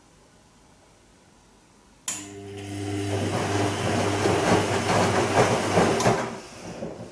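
Bosch Serie 2 Vario Perfect washing machine on its gentle silk programme. About two seconds in, the motor starts with a click and a hum, and the drum turns for about four seconds, water and laundry sloshing louder as it goes, then stops.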